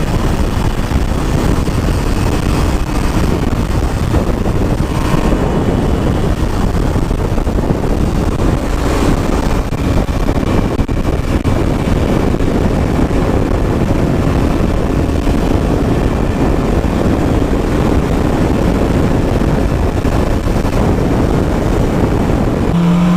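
Motorcycle riding at speed: steady engine and road noise under heavy wind rush on the microphone.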